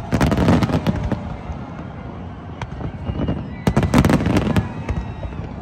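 Fireworks display: dense volleys of bangs and crackling, one cluster at the start and another about four seconds in, with lighter scattered pops between.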